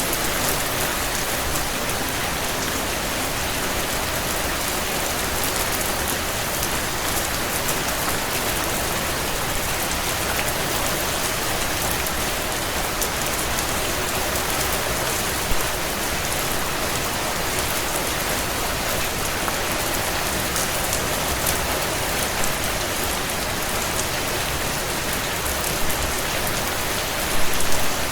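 Heavy rain falling steadily on window panes, a dense even hiss, with the crackle of a wood fire in a stone fireplace; a few louder pops come about halfway through and near the end.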